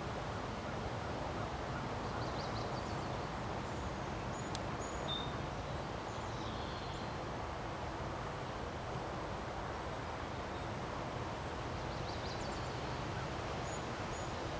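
Strong wind blowing steadily, an even rushing noise, with a few short bird chirps over it about two seconds in, around the middle, and again near the end.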